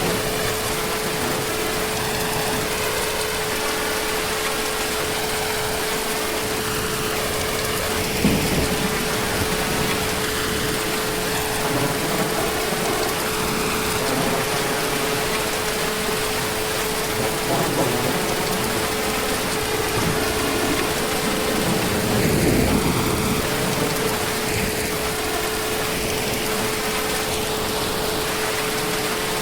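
Heavy, steady rain falling, with a faint constant hum under it and low rumbles of distant thunder about eight seconds in and again past twenty seconds.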